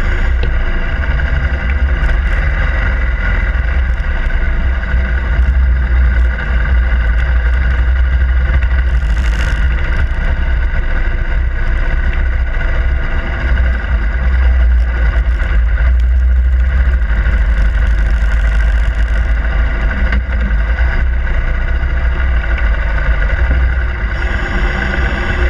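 Harley-Davidson Iron 883's air-cooled V-twin running steadily, with a brief hiss twice.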